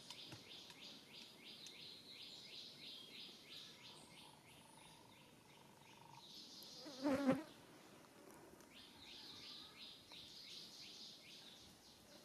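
Insects chirring outdoors in a fast pulsing rhythm of about four to five pulses a second. The chirring stops midway, then starts again. About seven seconds in, a short, loud pitched cry breaks in over it.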